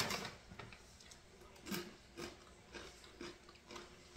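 A person chewing crunchy chipotle cheddar tortilla strips: a string of faint, irregular crunches.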